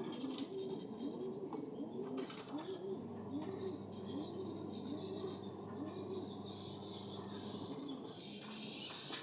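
Rustling and rubbing noise from kittens at play, coming in uneven patches, over a low wavering sound that repeats about twice a second.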